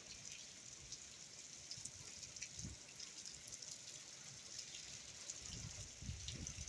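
Hurricane rain falling steadily: a faint, even hiss with scattered drop ticks, broken by a few brief low rumbles about midway and near the end.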